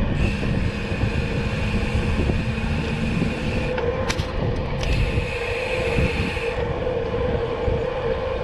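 Wind rumble on the microphone and road noise while riding in traffic, over a steady hum. A high whine cuts out for about a second near the middle, and there is a sharp click about four seconds in.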